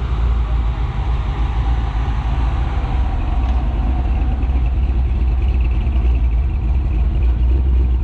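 A car engine running at low speed as a car rolls slowly past, with a steady low rumble.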